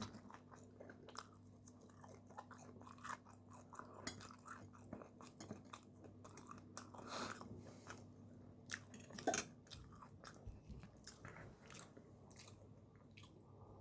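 Faint chewing and mouth sounds of a person eating, with many scattered soft clicks and one slightly louder knock about nine seconds in.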